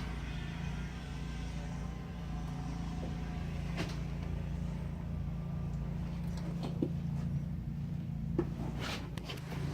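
A vehicle engine idling steadily, with occasional knocks and clatter of things being moved around, about four sharp ones in the second half.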